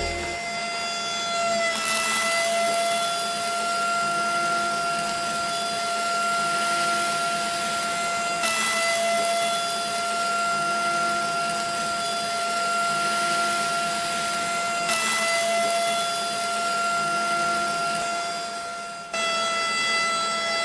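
Small electric motor running with a steady high-pitched whine, briefly breaking off and resuming a few times.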